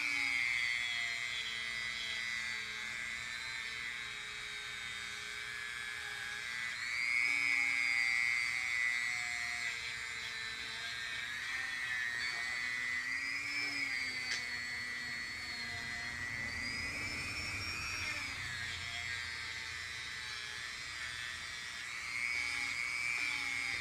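Die grinder whining at high speed while a rubber-bonded abrasive bit sands a Honda transmission case. The pitch sags and recovers several times as the bit is pressed into the metal and eased off.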